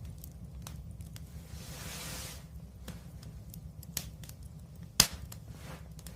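Wood fire crackling: scattered small snaps over a steady low rumble, a brief hiss about two seconds in, and one loud sharp pop about five seconds in.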